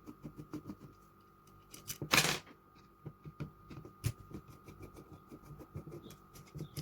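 Small metal clicks and ticks of hand tools working screws and parts off a carburettor body, with one louder, brief rasping noise about two seconds in and a sharp click near four seconds.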